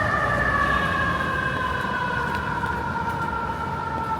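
An emergency vehicle's siren sounding one long, unbroken tone that falls slowly in pitch and fades a little, over city street noise.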